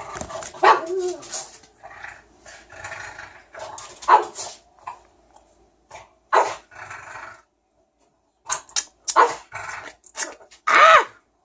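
A dog barking and yipping in short, separate bursts, about half a dozen times, with a lull in the middle. The dog is vocalising for its food while it is being prepared.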